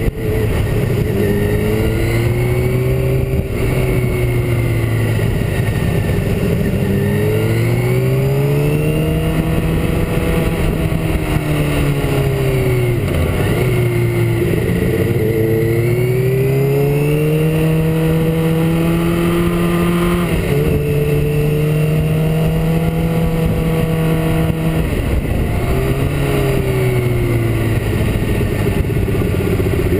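Motorcycle engine under way, heard from the bike itself with steady wind noise on the microphone. The engine note climbs and falls again and again as the rider accelerates and eases off through bends, with a deep drop in pitch about halfway through.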